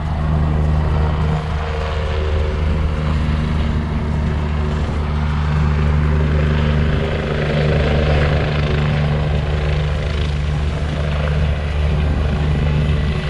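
A helicopter running close by: a loud, steady low drone that holds one pitch with no rise or fall, over a wash of rotor and engine noise.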